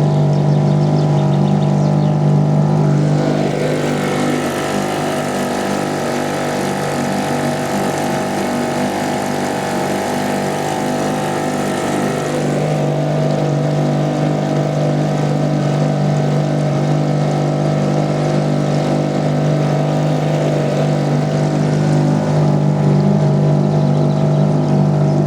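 Fisher 2.5 hp outboard motor running at a steady speed, pushing a small boat along: an even engine hum. A broad rushing hiss of water or wind lies over it from about three seconds in until about halfway through.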